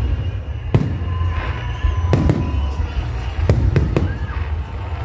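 Aerial fireworks salute bursting overhead: about six sharp bangs at uneven intervals, two or three in quick succession, over a steady low rumble.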